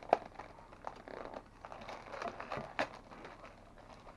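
Scattered light clicks and crinkling as small Halloween decorations are handled, with a sharp click just after the start and another near three seconds in.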